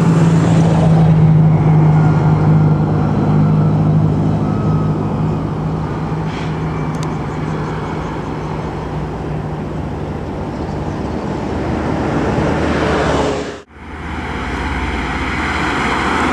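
Intercity bus passing at speed, its diesel engine hum and tyre noise loudest at first and fading as it goes by. Road noise then builds again, cuts out abruptly about three-quarters of the way through, and another vehicle's noise rises.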